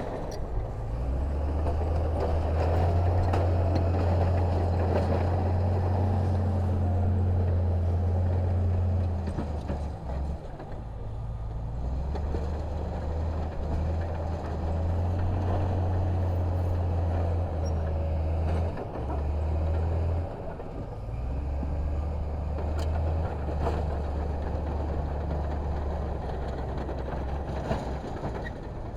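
Heavy diesel engine of earthmoving machinery working, a deep drone that swells and eases several times as the load changes.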